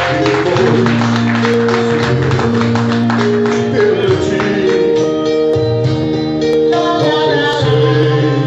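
Band music: a held melody line over a bass line, with percussion.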